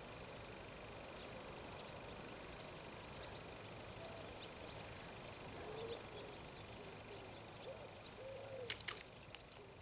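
Faint birdsong: many short high chirps throughout, with a few lower rising-and-falling calls in the middle. A couple of sharp clicks sound near the end.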